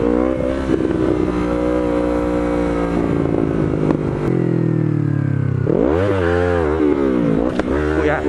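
Yamaha MT-03 motorcycle engine running under throttle on the move: it holds a steady note, winds down as it slows from about three seconds in, then revs up sharply about six seconds in and again near the end in throttle blips meant to lift the front wheel into a wheelie.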